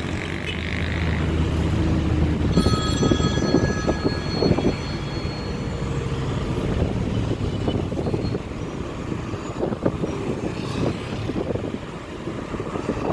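Road traffic on a busy city avenue: vehicle engines running and passing. A high steady tone sounds from about two and a half seconds in and lasts about two seconds.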